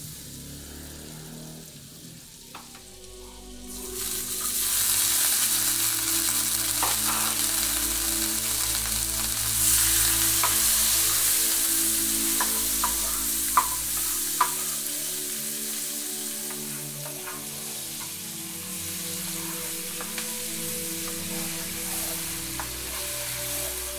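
Butter in a hot nonstick frying pan, sizzling quietly at first; about four seconds in a loud sizzle starts as chopped scallions and thyme go into the butter, and it jumps again near ten seconds, then slowly eases. A spatula stirs the vegetables and knocks against the pan a couple of times.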